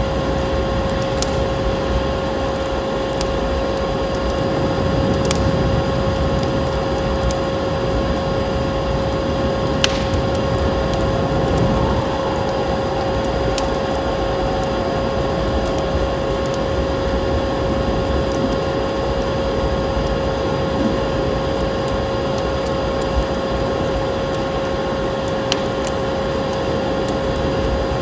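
Vacuum cleaner running steadily with a constant hum, layered with the occasional sharp crackle of a wood fire.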